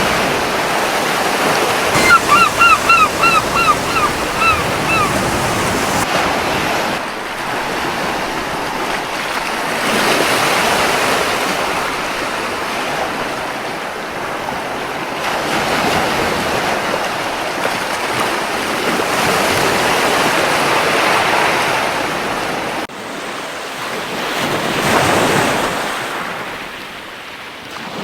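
Waves breaking and washing on a beach in slow surges, with wind. Early on a gull gives a quick series of about eight short, repeated calls.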